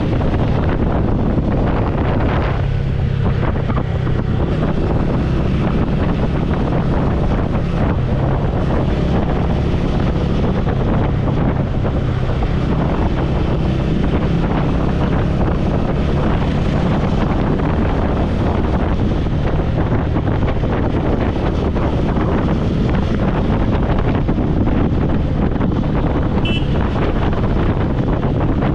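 Motorcycle riding at speed: wind rushing over a helmet-mounted microphone over the engine's steady low drone. Loud and even, with no change in engine note.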